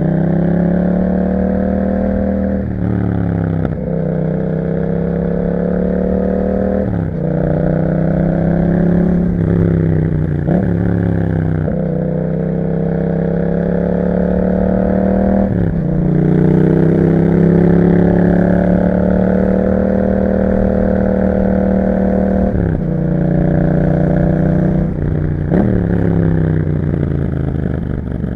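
Yamaha MT-07 parallel-twin engine through an Akrapovic exhaust, under way: the engine note climbs through the revs and drops sharply at each gear change, over and over. A longer stretch of easing off lets the pitch sink slowly before it climbs again.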